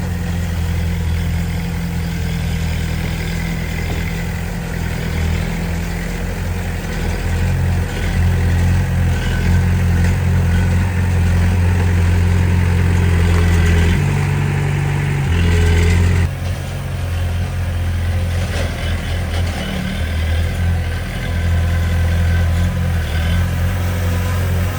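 Diesel engine of heavy earthmoving machinery running steadily under varying load. Its pitch changes about fourteen seconds in, and the sound shifts abruptly a couple of seconds later.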